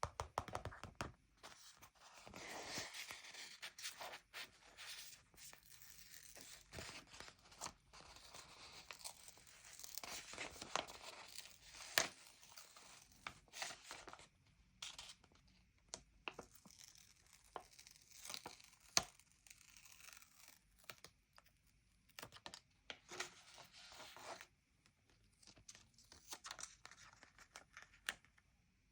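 Paper stickers being peeled off their backing sheet and pressed onto a sticker book page: soft papery peeling and rustling, broken by short sharp taps, two of them louder than the rest.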